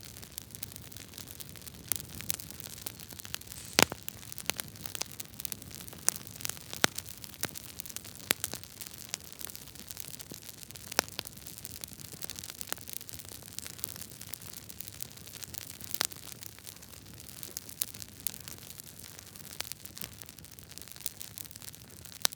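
Wood logs burning in a fireplace, crackling: irregular sharp pops and snaps over a steady hiss, the loudest pop about four seconds in.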